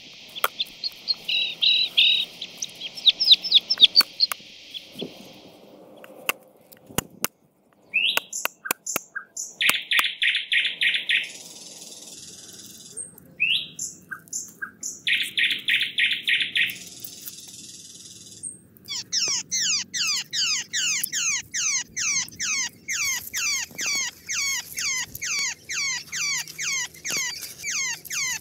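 Birds singing and calling, a series of different high chirping calls that switch abruptly several times, with a few sharp clicks about six seconds in; the last third is quick downward-sweeping chirps, about two a second.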